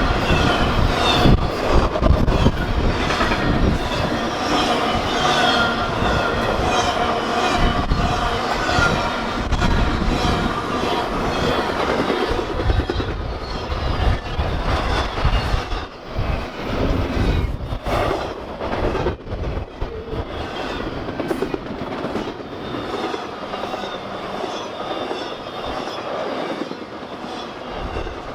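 Intermodal freight trains rolling past at close range: steady rumble of railcars with wheels clacking over the rail joints, and a wavering high wheel squeal through the first half that fades away. The rumble eases off slowly toward the end.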